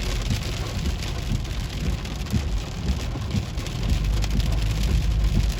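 Heavy rain falling on a moving car, with a steady low road rumble underneath, heard from inside the vehicle.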